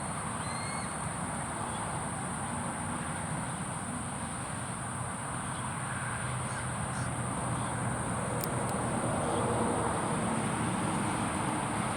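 Steady high-pitched drone of crickets or other insects over a low background rumble, with no sharp events standing out.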